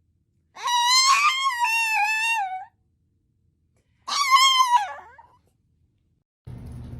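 A pet giving two long, wavering high-pitched howls: the first lasts about two seconds, the second is shorter and trails off.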